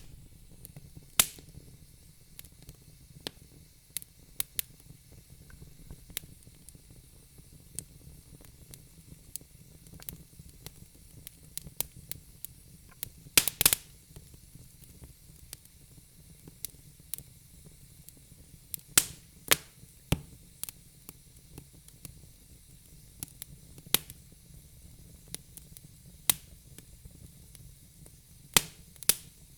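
Wood fire in a fireplace crackling: irregular sharp pops and snaps from burning logs over a faint low hiss, with a few louder pops about a third and two-thirds of the way through.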